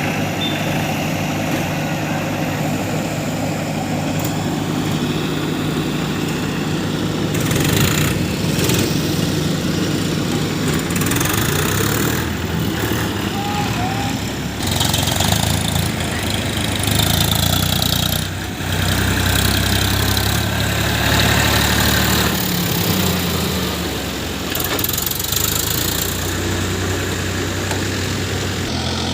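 Diesel engine of a JCB backhoe loader running, its revs rising and falling as it works loading mud, louder from about halfway through, with a few short bursts of noise.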